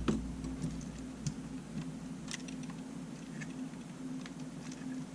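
Light, scattered clicks and ticks of small tools and parts being handled while a Sony A7 mirrorless camera is taken apart, over a faint steady hum.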